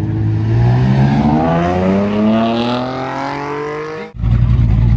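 Chevrolet Camaro accelerating hard, its engine note rising steadily in pitch for about four seconds. It cuts off abruptly near the end and gives way to a steady low engine rumble.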